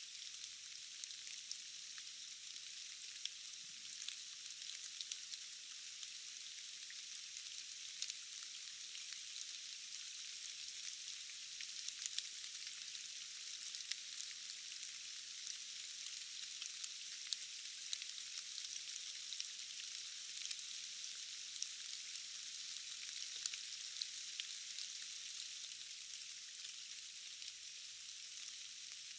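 Steady rain falling, a dense even hiss with many individual drops ticking sharply throughout.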